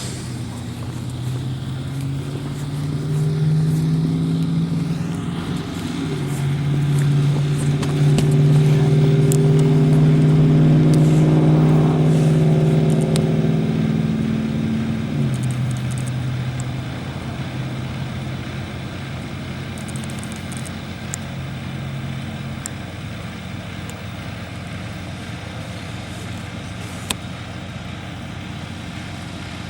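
Heavy vehicle engine running at a steady speed, stepping up in pitch and getting louder about six seconds in, then dropping back about fifteen seconds in, over a steady hum of traffic. A few small clicks sound on top.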